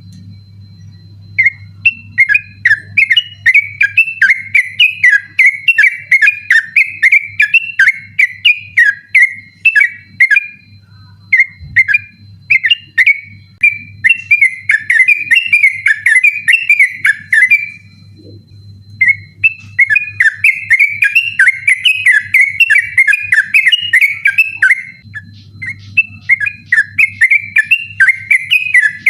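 Yellow-vented bulbul (trucukan) singing a fast, unbroken rolling chatter of short whistled notes, the persistent 'ropel' song, with brief pauses about ten seconds in and again around eighteen seconds. A low steady hum lies under it.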